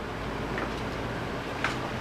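12-inch TK Super Deluxe table fan running steadily on its low speed: an even rush of air over a faint motor hum, with a light tick about one and a half seconds in.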